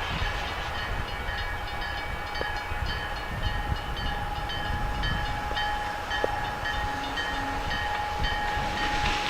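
EMD SD40-2 diesel locomotive running with a steady low rumble, while a railroad crossing bell dings at an even, repeating pace.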